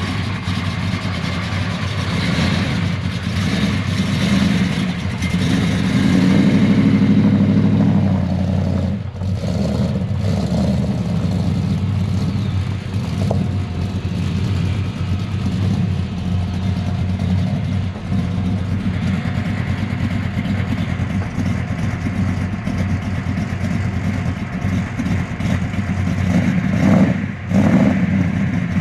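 A vehicle engine idling steadily, swelling briefly a few seconds in, with two short dips in level.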